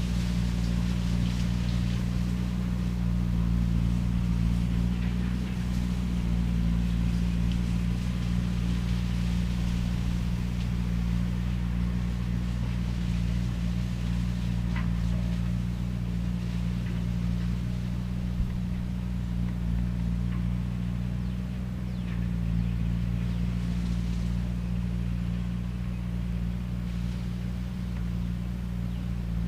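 Skid steer with a shredder head running steadily at a constant pitch, a low, even machine drone with faint scattered crackles on top.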